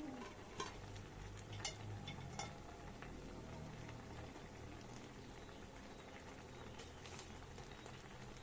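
Pot of clear vegetable soup (sayur bening) boiling on a stove, with a steady low bubbling rumble. A few sharp clicks come in the first two and a half seconds and another near the end.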